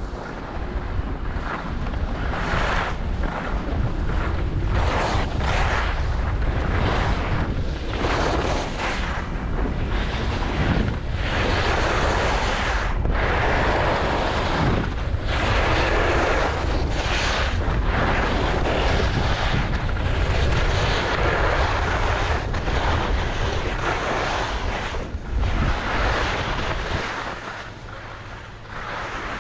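Skis scraping and carving over snow in repeated swells, one per turn, over a steady rumble of wind buffeting the microphone. Near the end it eases off and grows quieter.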